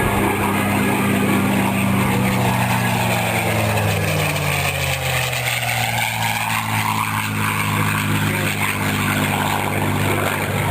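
A formation of propeller planes with 600-horsepower nine-cylinder Pratt & Whitney radial engines makes a high-speed pass. The engine drone drops in pitch as the planes go by, about midway through.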